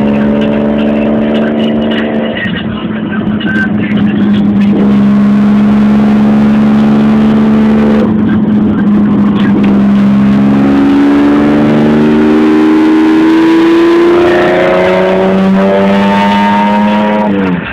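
Car engine and exhaust running at a steady note, then revving up with a pitch that climbs for several seconds and drops off sharply near the end.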